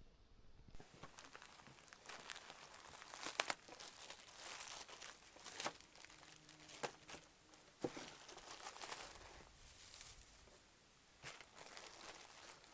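Dry material rustling and crinkling as it is handled, starting about a second in, with several sharp clicks and taps.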